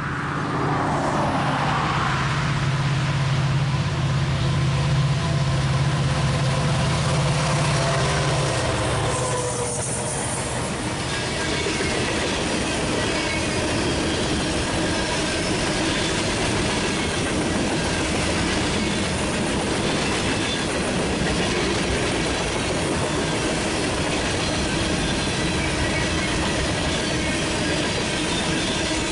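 A diesel freight train passing close by: the locomotives' engines drone steadily for the first nine seconds or so, then a long string of covered hopper cars rolls past, wheels running on the rails.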